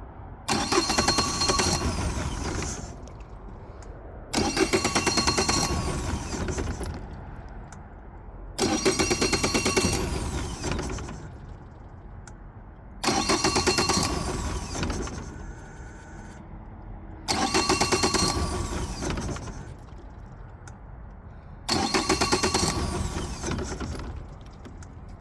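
2020 Mercury 150 hp outboard's starter cranking the engine six times, each try lasting about two and a half seconds with short pauses between, without the engine catching: the engine won't start.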